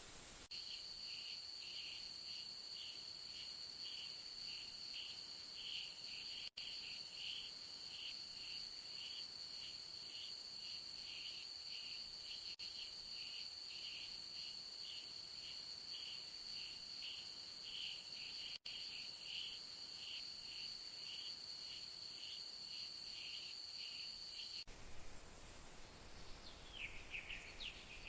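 Insects calling: a steady high-pitched trill with a second, pulsing call beneath it at about two pulses a second. Both stop abruptly about 25 seconds in, and a few short chirps follow near the end.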